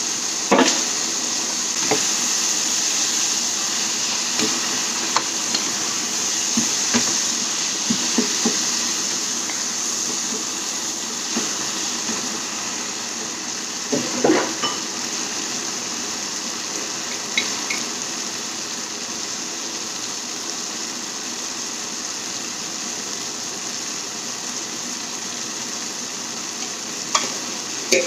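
Food sizzling steadily in a hot pan while being stirred, with occasional knocks and scrapes of a spoon against the pan.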